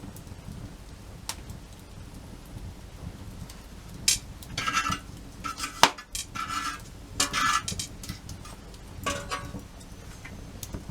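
A run of short scraping and clinking handling sounds, about six in a few seconds, with one sharp knock in the middle, over a low steady rumble.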